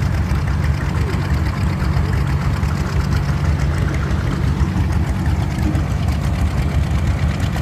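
Vintage tractor engine running steadily with a rapid, even firing beat.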